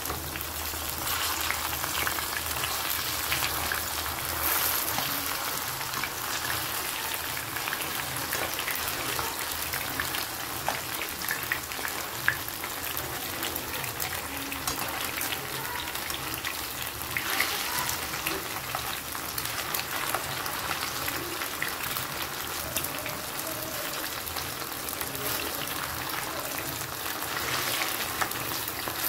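Marinated chicken pieces frying in hot oil in a pan, a steady sizzle, with a few light clicks as the pieces are turned over with metal tongs.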